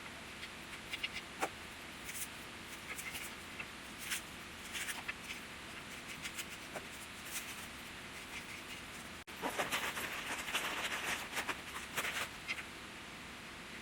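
Scattered small clicks and crackles, with a denser burst of rustling and crackling from about ten to twelve and a half seconds in.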